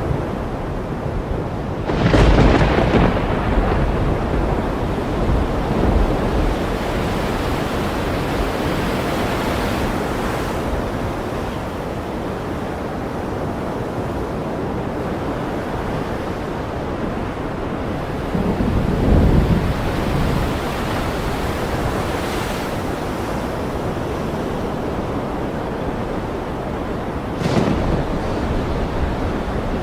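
Ocean waves breaking steadily under a thunderstorm, with rolls of thunder swelling up about two seconds in, near the middle and again near the end.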